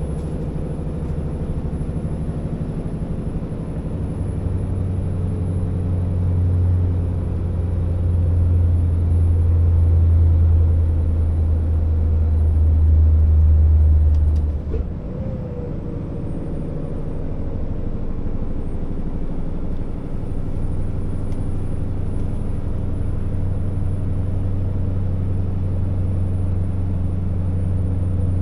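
Scania R650 timber truck's V8 diesel engine running under load as the heavy rig is driven. The deep drone builds for about ten seconds, drops off abruptly with a short click about halfway, then builds again.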